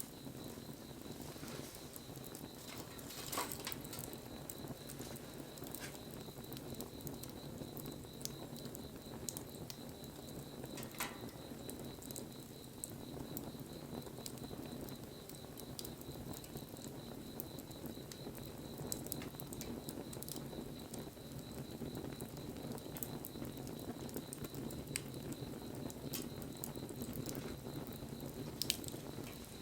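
Wood fire burning with a low steady rush and scattered crackles and pops, one louder pop a few seconds in and another near the end.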